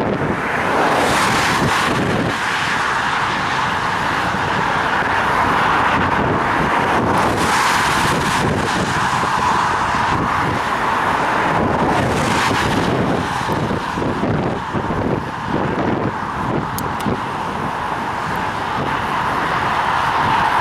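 Steady road noise recorded while cycling in the rain: wind buffeting the head-mounted camera's microphone, with motor traffic hissing past on the wet road. The traffic noise swells about a second in, again around seven and a half seconds, and again around twelve seconds.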